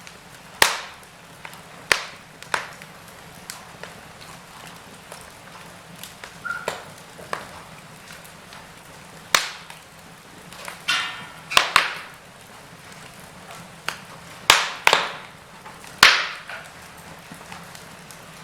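Wood fire in a fireplace crackling, with irregular sharp pops of varying loudness over a faint hiss.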